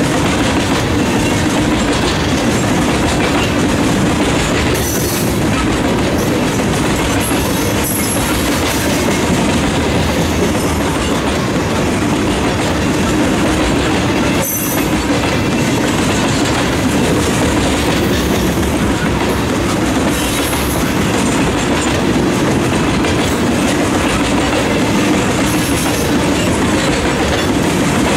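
Norfolk Southern coal hopper cars rolling past: a steady rumble of steel wheels on rail with a rhythmic clickety-clack, and brief high wheel squeals a few times.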